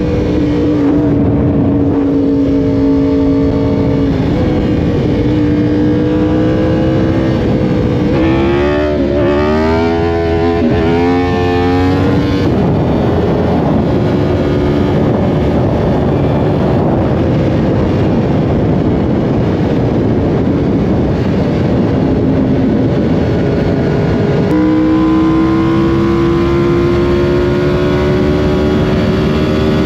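Yamaha R1 inline-four engine running hard at speed, over a constant rushing noise. About eight seconds in, the revs rise and fall quickly several times for a few seconds. Near the end the pitch jumps and then climbs steadily as the bike accelerates.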